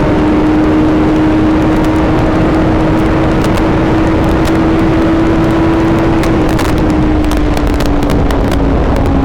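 Suzuki GSX-R750's inline-four engine running at a steady cruise under heavy wind rush on the microphone, its pitch easing down slightly about seven seconds in.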